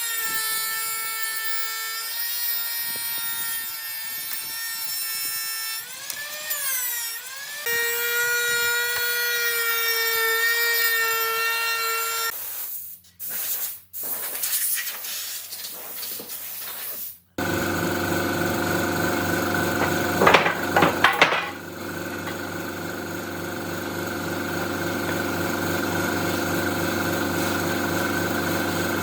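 Electric woodworking power tools machining oak. A high motor whine runs steadily, dips in pitch and recovers about six seconds in, and turns uneven after about twelve seconds. From about seventeen seconds a different, lower-pitched machine runs steadily, with a few sharp knocks around twenty seconds.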